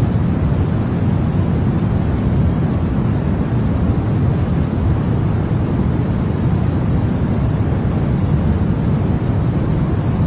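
Continuous sleep-aid white noise: an even, unchanging noise with no pitch or rhythm. Most of the sound sits in the low end, so it comes across as a deep steady hiss rather than a bright one.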